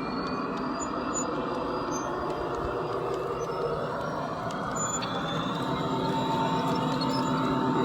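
Train running, a steady mechanical rumble with a held whine that comes in about two-thirds of the way through.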